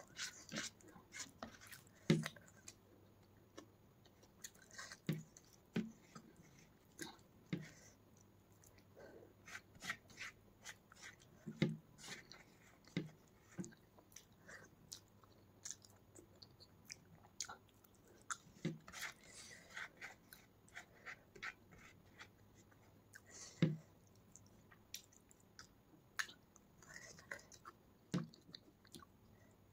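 Close-miked chewing of soft rice and egg curry eaten by hand, with irregular wet mouth clicks and smacks and occasional soft thuds.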